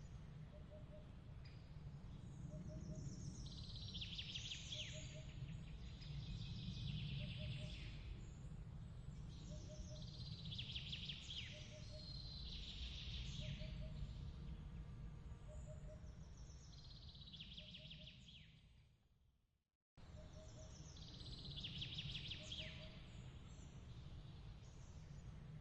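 A songbird singing short, falling phrases every three seconds or so over a steady low rumble, with a soft, short chirp repeating about once a second. The sound fades out and restarts abruptly about twenty seconds in, the seam of a looped ambience track.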